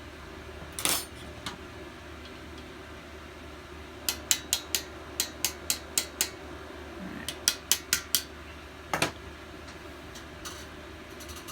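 Sharp metallic clicks from hand tools working on a small engine during teardown: one near the start, then a run of about nine evenly spaced clicks at roughly four a second from about four seconds in, a shorter run of four, and a last single click.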